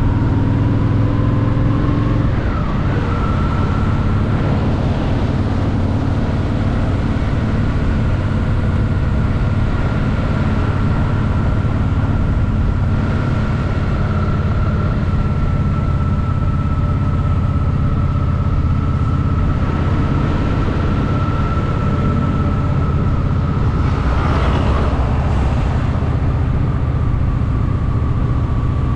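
Honda Shadow VT750's V-twin engine running steadily while under way. Its pitch rises, then drops about two seconds in. There is a brief rushing noise near the end.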